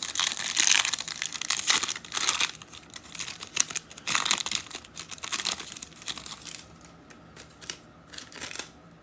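Foil trading-card pack wrapper being torn open and crinkled, a run of irregular crackling that is loudest in the first few seconds and thins to faint handling clicks near the end.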